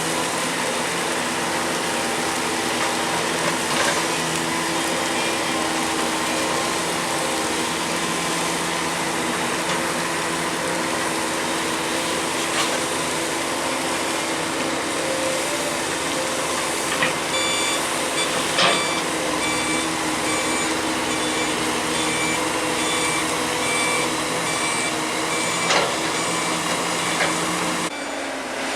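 Excavator engine running steadily, with a few sharp knocks. A repeating electronic beep, like a machine's travel alarm, joins a little past halfway and stops near the end.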